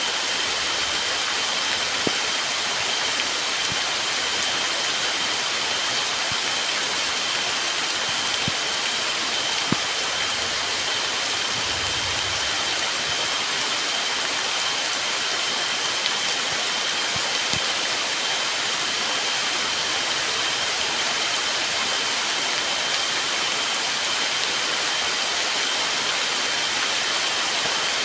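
Heavy rain falling steadily in forest, an even hiss with a few faint drip-like ticks, under two steady high-pitched tones that run throughout.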